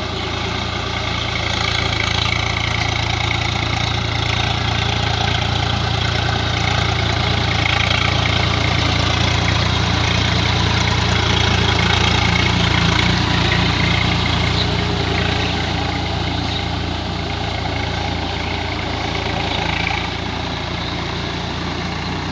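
Swaraj 744 FE tractor's three-cylinder diesel engine running steadily, a deep even drone that swells slightly in the middle.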